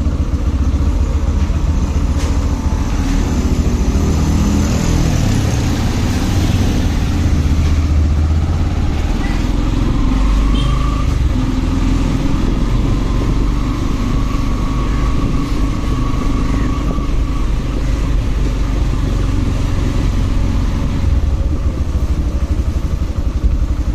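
Motorcycle engine running under way with road and wind noise. The engine note climbs in pitch during the first few seconds as the bike accelerates.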